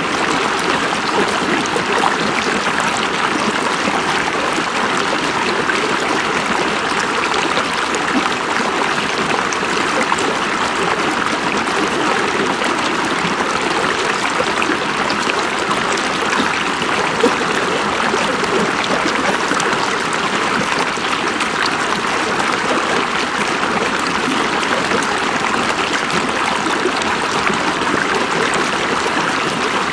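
River water flowing steadily over rocks: a constant rushing babble with no breaks.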